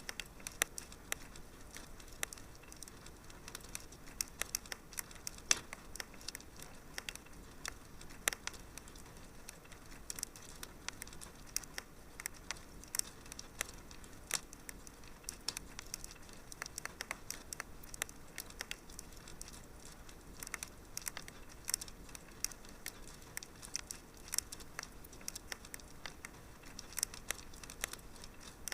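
Wood fire in a fireplace crackling: a steady low hiss with many sharp, irregular pops and snaps, several a second.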